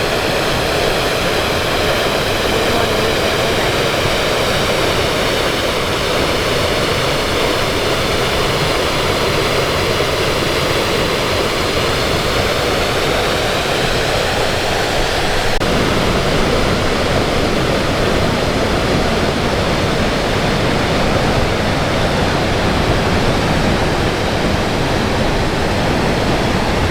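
Sol Duc Falls: a waterfall pouring with a loud, steady rush of falling water. About two-thirds of the way through, the sound shifts suddenly to a fuller, deeper rush.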